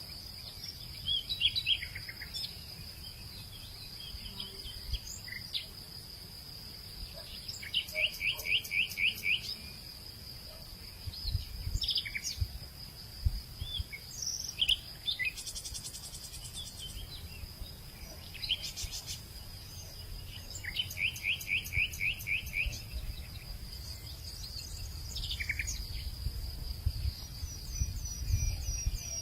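Hillside evening ambience: a steady high-pitched insect drone runs throughout while birds call over it, including two quick runs of repeated notes and scattered short chirps and whistles. A low rumble lies underneath.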